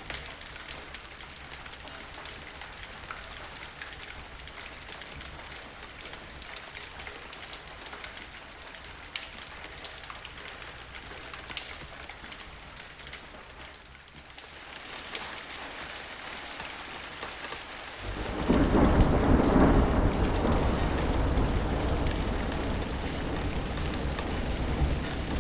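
Steady rain with individual drops ticking on a surface, then about two-thirds of the way through a sudden loud roll of thunder that rumbles on, strongest at its onset and slowly fading.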